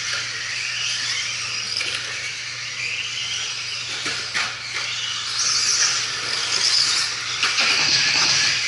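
Several 2WD RC stadium trucks racing, their motors and gears whining up and down in pitch as they accelerate and brake, with a few sharp clacks partway through and near the end.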